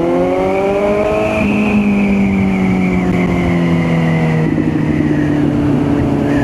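Kawasaki Z900's inline-four engine under way: the revs climb for about a second and a half, drop at a gear change, then fall away slowly as the bike slows. About four and a half seconds in the pitch steps down again and then holds steady.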